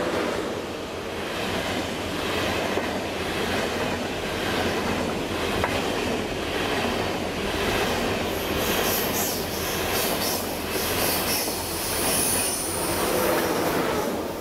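An ICE 1 high-speed electric train passing close by: steady rolling rumble of wheels on rail with a regular beat about once a second as the coaches' bogies go by, and a brief high squeal near the end before the noise drops away as the last car clears.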